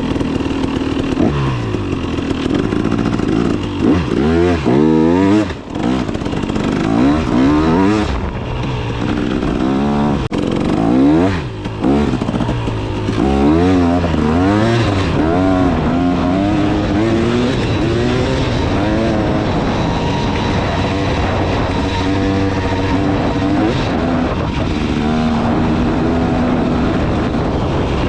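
300 cc two-stroke dirt bike engine being ridden, its pitch repeatedly rising and falling as the throttle opens and closes, with a couple of brief throttle-offs.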